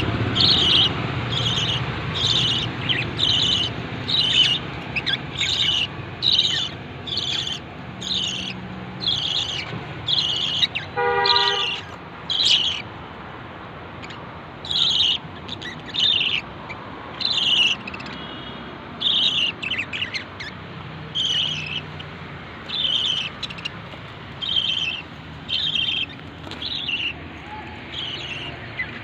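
Lovebirds giving short, shrill, high-pitched chirps over and over, about one a second, with a brief pause around thirteen seconds in. A short pitched tone sounds once, about eleven seconds in.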